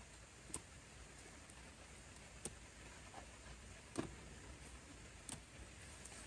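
Near silence with a faint steady hiss, broken by four faint, scattered clicks, the loudest about four seconds in.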